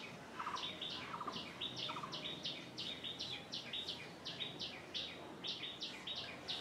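A small bird calling, faint: quick high chirps repeated about three times a second, with a few lower, buzzier notes in the first two seconds.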